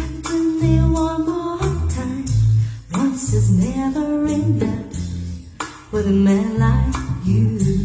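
A song with a singer over a heavy, changing bass line and drums, played through Sony P707AV loudspeakers.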